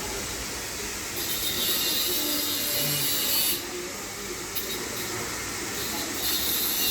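A steady high hissing noise in long stretches: it starts about a second in, breaks off after about two and a half seconds, and comes back near the end.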